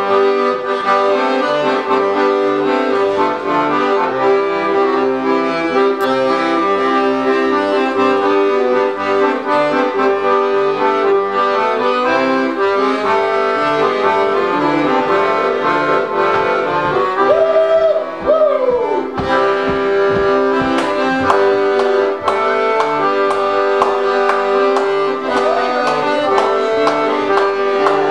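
Accordion music with a steady bass-and-chord accompaniment, a lively melody running over sustained chords; a short gliding phrase near the middle.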